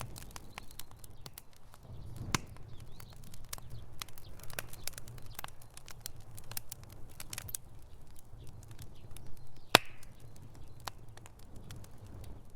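Wood fire crackling in a fireplace: irregular sharp pops and snaps over a low steady rumble, with the loudest pop about ten seconds in.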